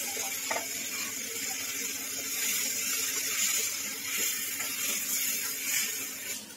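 Tomato and green-chilli paste sizzling in hot oil over fried onions in a steel kadhai while a steel ladle stirs it. The sizzle fades near the end.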